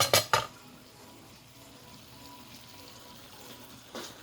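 Three quick, sharp knocks or clatters in the first half-second, then low steady background noise, with one softer knock near the end.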